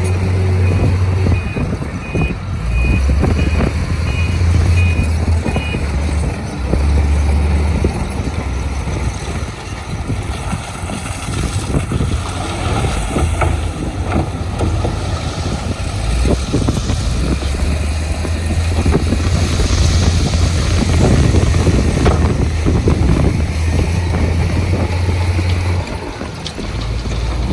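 Heavy diesel construction machinery running steadily, with a reversing alarm beeping about twice a second for the first five seconds or so.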